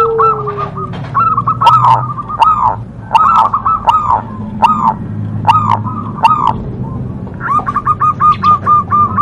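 Zebra dove (perkutut) cooing: a series of short rolling notes in bouts, ending in a quicker run of evenly spaced notes.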